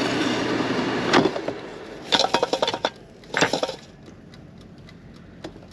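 Cookware being handled: a steady hiss that stops about a second in with a clank, then two short bursts of clinking and rattling of a pan and utensils, and a few faint ticks near the end.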